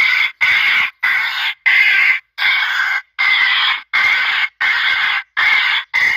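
Korshun-8 electronic bird repeller playing recorded bird cries through its loudspeaker: a loud harsh call repeated about one and a half times a second, each cry about half a second long with short silences between.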